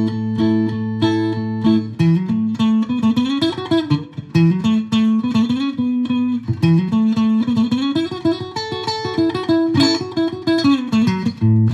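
Stratocaster electric guitar played through a Fender Mustang GTX100 amp on its acoustic guitar simulator preset. It opens with repeated picked notes over a held low note, then about two seconds in moves to a picked single-note melody with slides between notes.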